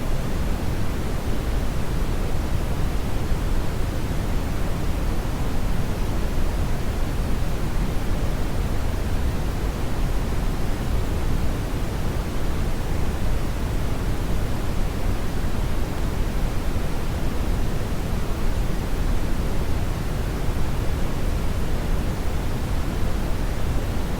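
Steady brown noise: an even, unbroken rushing hiss weighted heavily toward the low end, with no changes or events.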